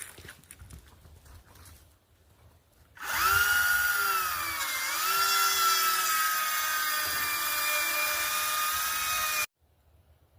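Faint knocking, then about three seconds in a power tool motor starts with a high, steady whine. Its pitch sags briefly soon after starting, holds steady, and stops suddenly near the end.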